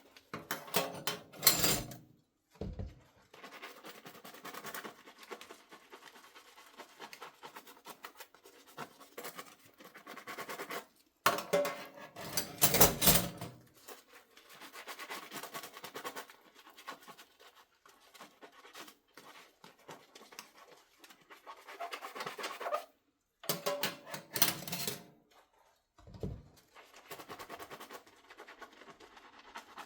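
Dishes being hand-washed at a sink: steady sponge scrubbing, broken by three louder bursts of a few seconds each, about a second in, around twelve seconds in, and around twenty-four seconds in.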